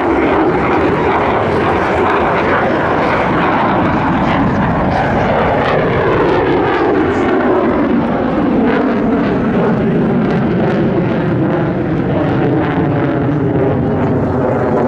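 F-35B Lightning II's single F135 turbofan jet engine running loud and steady as the jet flies its display, the sound sliding down in pitch about halfway through as it passes.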